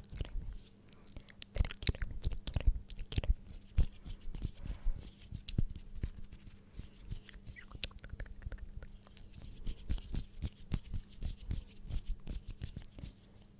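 Close-miked ASMR mouth sounds: a dense run of short wet clicks and smacks.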